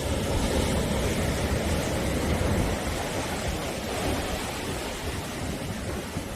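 Sea waves washing onto the shore in a steady rushing surf, swelling a little louder in the first few seconds and then easing off.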